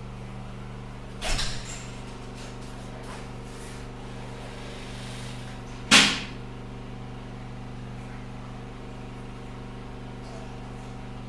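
Steady background hum broken by two sharp knocks, one about a second in and a louder one about six seconds in.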